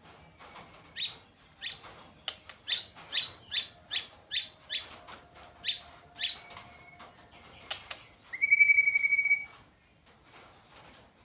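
Songbird singing: a run of about a dozen sharp notes that sweep downward, roughly two a second, then a louder steady whistle held for over a second about two-thirds of the way through.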